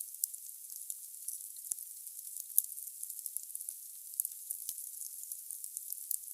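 Firewood burning in a fireplace: a steady high hiss with frequent sharp crackles and pops, one louder pop about two and a half seconds in.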